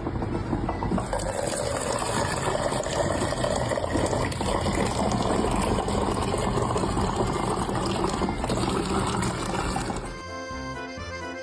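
A steady rush of running water that lasts about ten seconds, then stops as background music with clear notes returns near the end.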